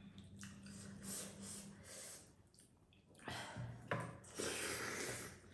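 Wet close-up eating sounds from a meal of dhido and chicken broth, with soft breaths or sniffs; the louder stretch comes in the second half.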